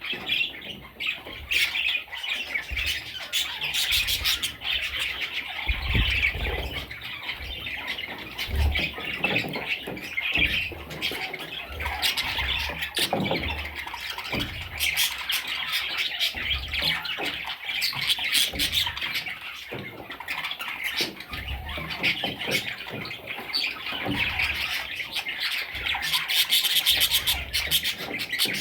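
Budgerigars squawking and chirping continuously, many raspy calls overlapping without a break.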